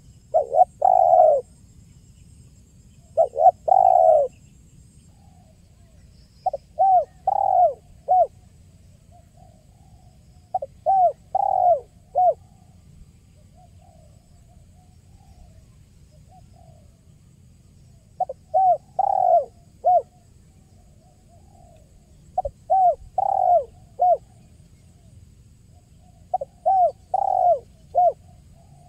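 Spotted dove (tekukur) cooing. It repeats short phrases of three or four notes, the last one clipped, every three to four seconds, with one longer pause of several seconds midway.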